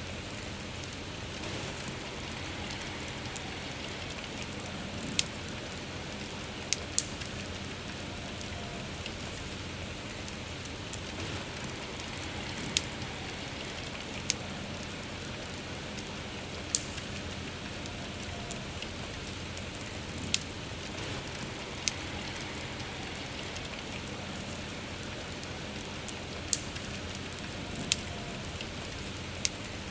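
Steady soft rain, with a campfire's sharp crackles and pops about every second or two.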